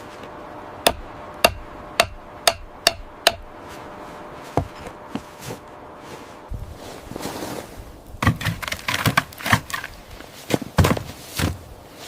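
Six sharp, hammer-like knocks about half a second apart. After a quieter stretch, a busier run of louder knocks and scraping begins about eight seconds in.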